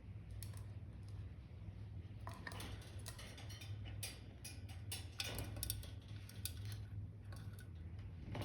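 A run of light, sharp clicks and ticks over a steady low hum.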